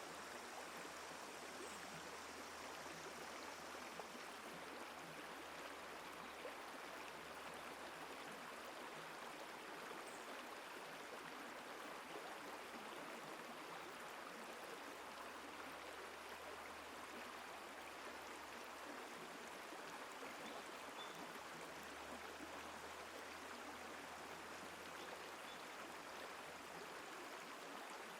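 Faint, steady rush of running water, with a few brief, faint high chirps.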